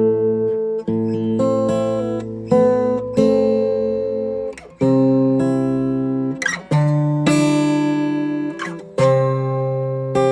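Acoustic guitar music: chords strummed or plucked every second or two, each ringing out over a held bass note.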